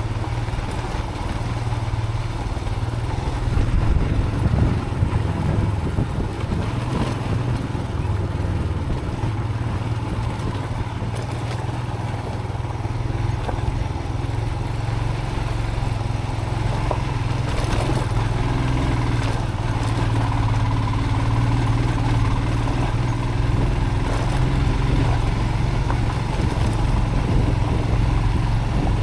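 Motorcycle engine running steadily under way on a rough dirt track, with a few brief knocks from the bike and track.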